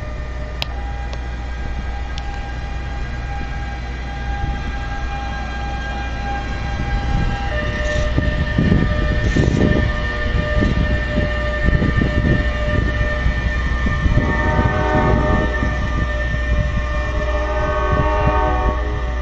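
NJ Transit push-pull train of Comet IV coaches and an ALP46A electric locomotive rolling through the station: a steady rumble with knocks of wheels over rail joints, loudest from about 8 s in, and several steady whining tones that shift in steps in the second half.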